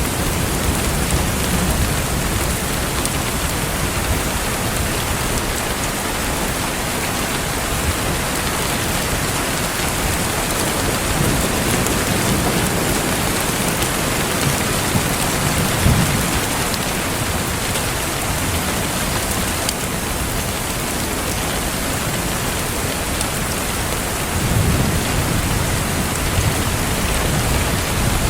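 Steady rain falling, an even hiss without a break. Low rumbles swell up a few times, most clearly about halfway through and near the end.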